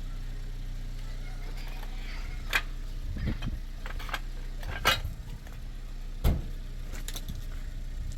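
A steady low motor hum, with a series of sharp knocks or clacks over it; the loudest come about two and a half, five and six seconds in.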